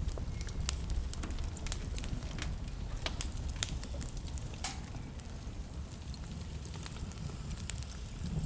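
Wood fire burning in a fireplace: a steady low rumble of the flames with irregular sharp crackles and pops, thicker in the first half.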